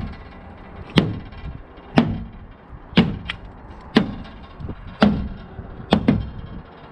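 Hammer blows on the sheet-metal quarter panel of a car, about one a second with a few lighter taps between, each strike ringing briefly: the crease of a dent being knocked out.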